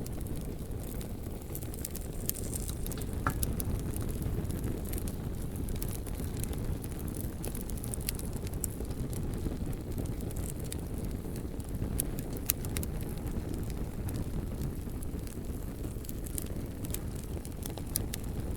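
Campfire burning, with scattered sharp crackles and snaps over a steady low rumble.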